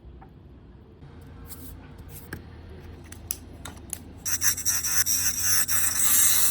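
Crafting on wooden popsicle sticks: a few light clicks and scrapes, then a loud, fast rasping rub, like cutting or sanding the wood, starting a little past halfway.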